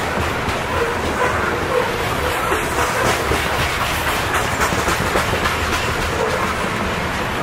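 Covered hopper cars of a freight grain train rolling past close by: a steady rumble, with the wheels clacking over the rail joints.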